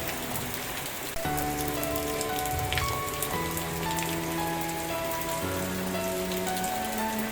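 Steady rain falling, with scattered drops ticking, over soft sustained background music whose chords change every second or two.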